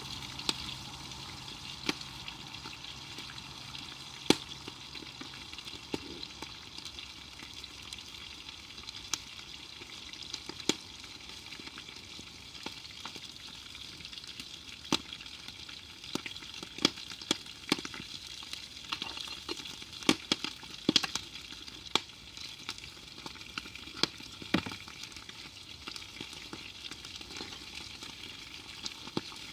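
Food frying in a pan over a campfire: a steady sizzle with scattered sharp pops and crackles, more frequent in the second half.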